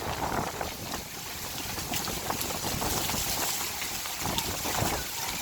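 Heavy rain pouring and spattering onto a flooded street, a steady hiss of many small ticks, with gusting wind rumbling on the microphone.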